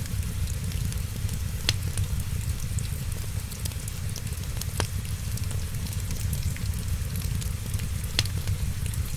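Wood fire crackling with a fine sizzling hiss and three sharp pops about three seconds apart, over a steady hiss of rain and a low rumble.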